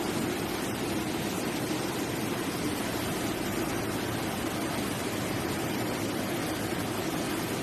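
Floodwater rushing, a steady even noise of fast-flowing water with no change in level.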